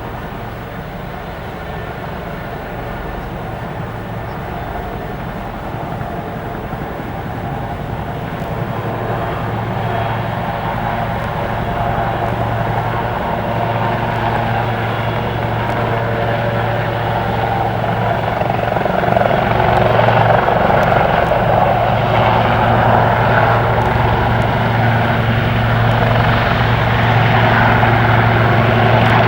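CH-47 Chinook twin-rotor helicopter running, with a steady low drone under the rotor and turbine noise, growing steadily louder and loudest from about two-thirds of the way through.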